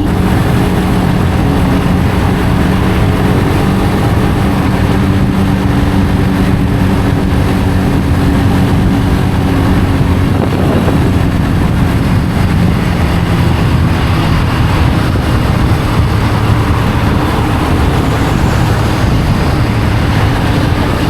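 Benelli BN125 motorcycle's single-cylinder 125 cc engine running steadily under way, with wind rushing over the microphone. The engine pitch shifts slightly about halfway through.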